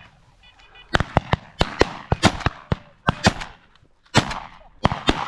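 Shotgun shots from several hunters firing at flushed pheasants: about five loud shots roughly a second apart, each trailed by a rolling echo, with sharper clicks in between.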